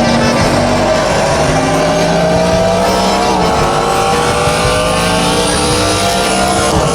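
Car engine accelerating through the gears: its pitch climbs steadily, then drops suddenly at a shift about three seconds in and again near the end.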